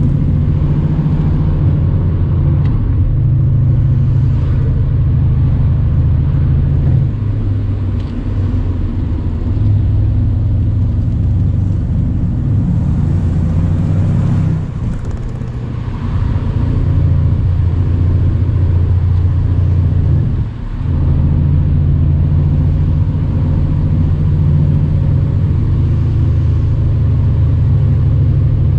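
Mercedes-AMG C63's twin-turbo V8 running steadily under light load on a country road, a loud deep rumble that eases a few times, with a brief sharp dip about two-thirds of the way through.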